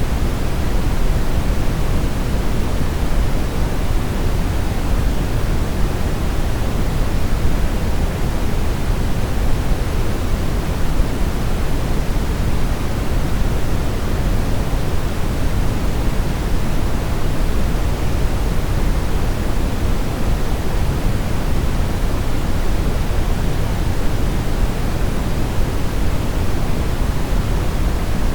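Steady brown noise: an even, unchanging deep rushing hiss, strongest in the bass and thinning toward the treble.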